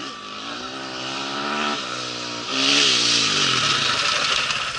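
Rally-raid motorcycle accelerating past at speed: the engine revs climb, drop briefly about two seconds in as it shifts gear, climb again as it passes closest, then fade as it goes away.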